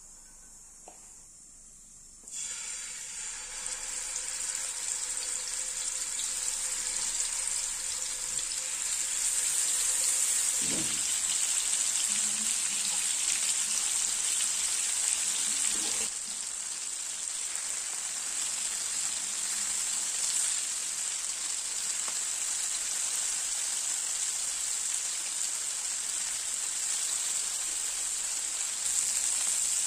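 Food sizzling in hot oil in a pan. The sizzle starts suddenly about two seconds in and then runs steadily.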